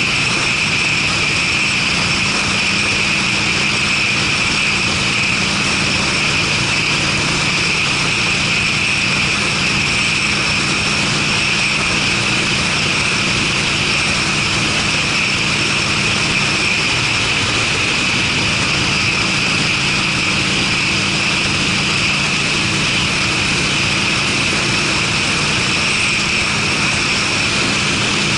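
Harley-Davidson Sportster's air-cooled V-twin, fitted with Screamin' Eagle mufflers, running steadily at a constant cruising speed, with a steady hiss over the exhaust note.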